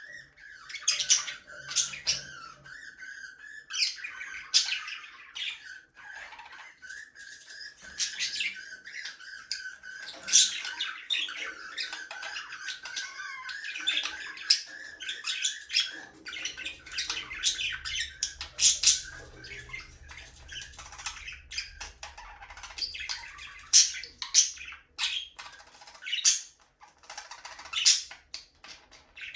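A flock of budgerigars chattering: many sharp squawks and chirps over a continuous warble that fades out about halfway through.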